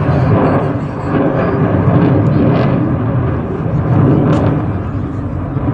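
Sukhoi Su-57 fighter jet's twin turbofan engines roaring in flight: a loud, continuous rumbling roar that swells and eases slowly.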